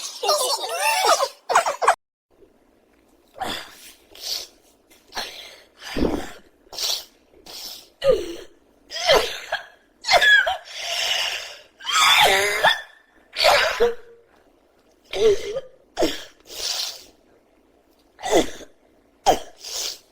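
A person's explosive vocal outbursts, a burst every second or so, with short sobbing wails near the start.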